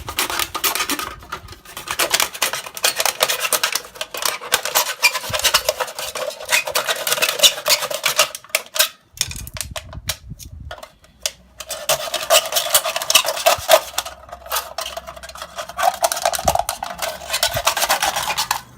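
An aluminum beer can being cut in half: rapid rasping, scraping strokes of a blade against the thin metal, with a ringing edge to them and a short break about halfway through.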